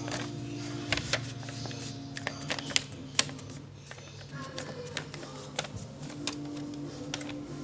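A sheet of paper being folded and creased by hand: an irregular scatter of sharp crinkles and taps.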